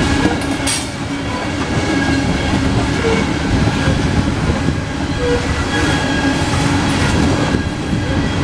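CSX coal hopper cars rolling past at close range: a steady heavy rumble of steel wheels on the rails, with short clatters as the wheels cross the joints.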